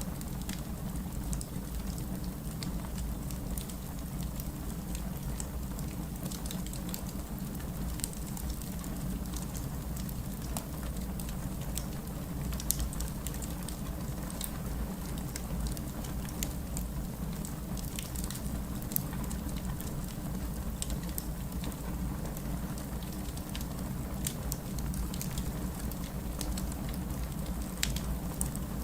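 Steady rain with a crackling wood fire: a constant low rush of rain under many small, scattered pops and snaps.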